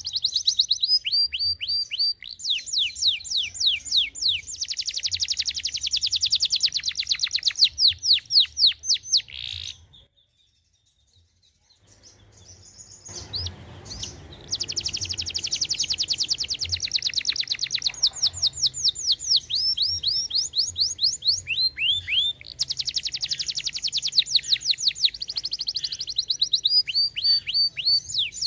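Domestic canary singing in long, rapid trills and rolling runs of quick repeated notes. The song breaks off for about two seconds near the middle, then resumes.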